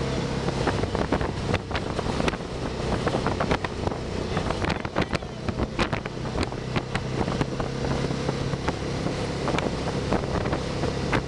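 Can-Am Spyder three-wheeled motorcycle engine running steadily while riding, with wind buffeting the microphone and many short crackles.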